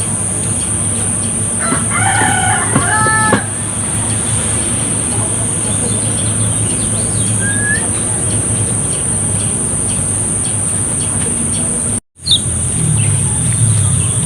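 A rooster crows once, about two seconds in, for around a second and a half, over a steady high-pitched whine and a low hum. A single short rising bird chirp comes near the middle, and the sound drops out for a moment near the end.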